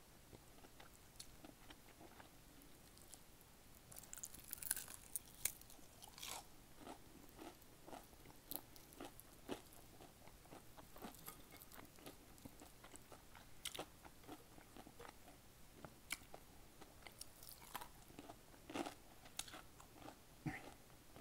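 Close-miked chewing of crispy breaded Popeyes fried chicken, with sharp crunches of the batter and wet mouth sounds. The crunching comes in bursts, one about four seconds in and another near the end.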